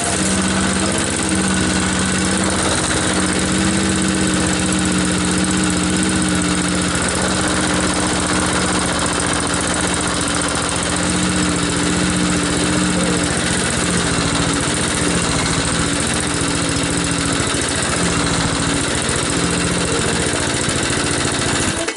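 Predator 173cc single-cylinder engine, newly swapped onto a push lawn mower, running steadily at low throttle. It cuts off abruptly at the very end when the bail bar's kill switch stops it.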